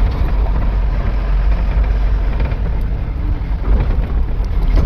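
Truck on the move: a steady engine and road rumble, heaviest in the low end.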